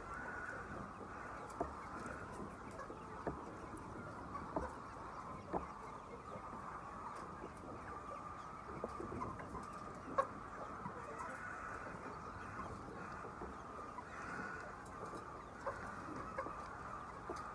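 Large flock of chickens calling and clucking together in a continuous chorus, with scattered short sharp clicks and knocks.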